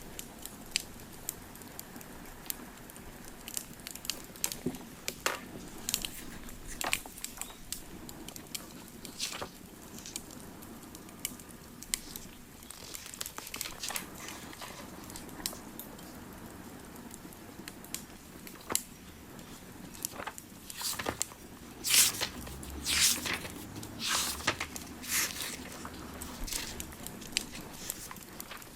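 A wood fire crackling and popping in irregular sharp snaps over a low steady bed. About three-quarters of the way through comes a cluster of louder, longer crackles.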